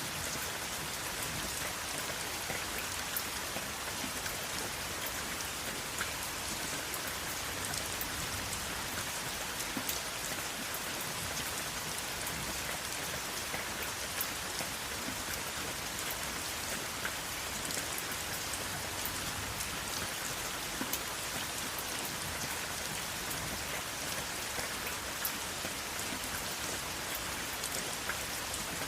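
Steady rain falling, an even hiss with many fine drop ticks scattered through it.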